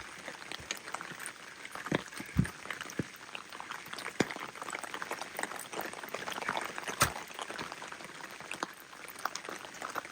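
Rain dripping and pattering: a dense, irregular run of sharp drops over a steady wash, with a few louder taps about two seconds in and again about seven seconds in.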